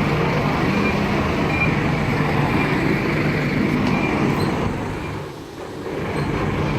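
Scania K230UB city bus running with a loud, steady mechanical drone whose cause is unknown. The sound drops briefly about five seconds in, then returns.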